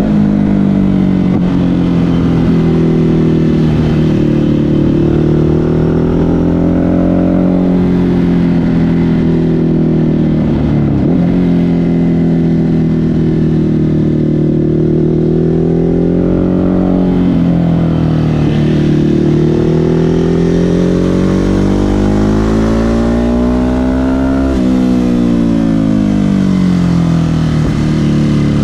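Ducati Hypermotard 950 SP's L-twin engine running through an SC Project exhaust under way, its revs rising and falling with the throttle. Near the end the revs climb for several seconds, then drop suddenly.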